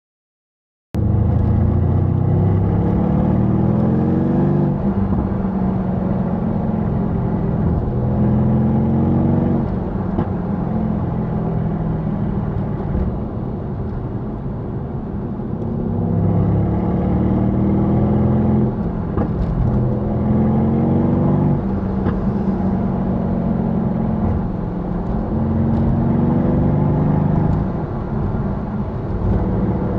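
Mercedes-AMG C63 S's twin-turbo V8 on its stock exhaust, accelerating through the gears. The engine note climbs in pitch for a few seconds, then drops at each upshift, and this happens several times. It starts about a second in.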